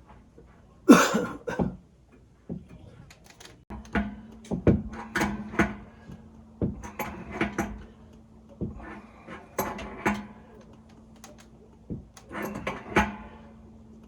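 Irregular knocks and clattering of hand work on plumbing parts, the loudest a short rattling clatter about a second in, with a faint steady hum joining about four seconds in.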